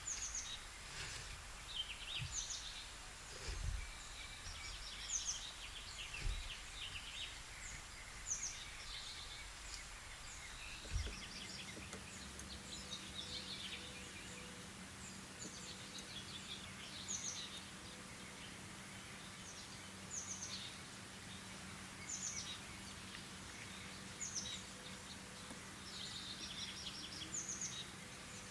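Wild birds singing, with short repeated chirps and trills throughout. A few low thumps come in the first half, and a faint steady hum starts about eleven seconds in.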